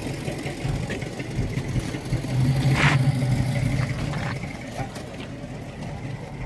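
A car engine running steadily, swelling louder for about a second midway through, then settling back.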